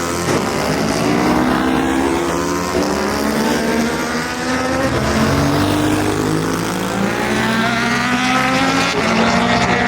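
Racing motorcycle engines running hard, their pitch climbing as they rev up, dipping, then climbing again near the end.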